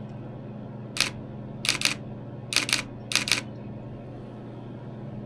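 Nikon D7000 DSLR shutter firing several times: one click about a second in, then three quick pairs of clicks. A steady low hum runs underneath.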